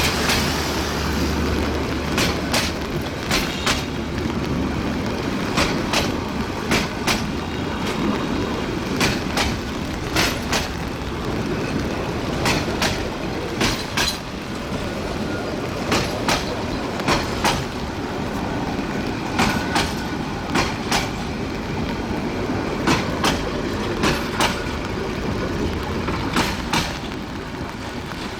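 Metre-gauge passenger coaches rolling slowly past, their wheels clacking over the rail joints in close pairs roughly once a second. Under it is a steady hiss of rain.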